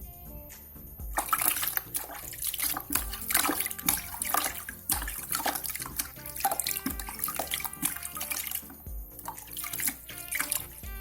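Water splashing in irregular bursts as a zebra dove is dipped and washed by hand until its feathers are soaked.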